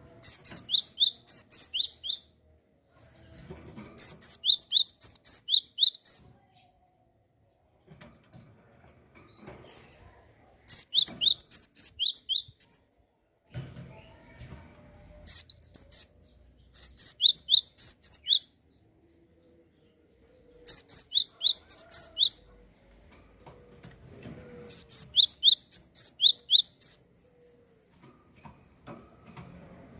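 A gelatik songbird singing in repeated bursts of about two seconds, roughly seven in all. Each burst is a quick run of high, sharply falling whistled notes, with short pauses between bursts.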